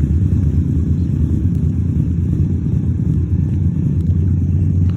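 Indian Scout Sixty's V-twin idling through Vance & Hines Grenades mufflers, heard from some 10 to 20 metres away: a steady low exhaust rumble.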